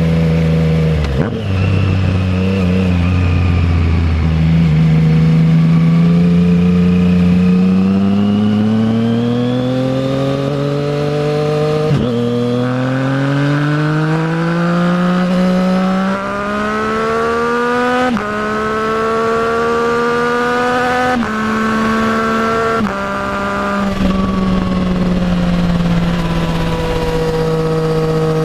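Triumph Trident 660's inline three-cylinder engine through a full Zard exhaust, pulling long and rising in pitch through the gears. Its note drops sharply at upshifts about twelve and sixteen seconds in, shifts a few more times, then settles to a steady cruise.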